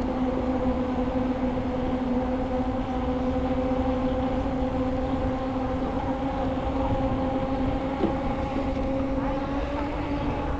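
Bicycle tyres rolling on pavement, a steady pitched hum over a low rumble, the hum rising slightly in pitch near the end.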